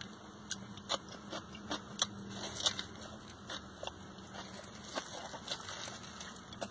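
Close-up chewing and biting of a sub sandwich and pickled jalapeño slices, with scattered faint crackles from the plastic wrap being handled around the sandwich.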